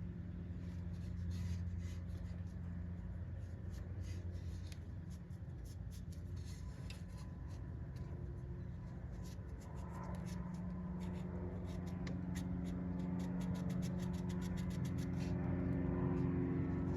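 Rapid scraping and rubbing of a tool on a rusty metal part, many quick rasps that grow denser about halfway through, over a steady low hum.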